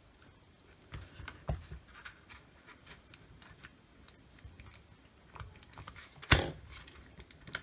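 Scattered small clicks and knocks of a Milwaukee rotary tool's plastic housing being worked apart by hand, with one loud sharp crack about six seconds in.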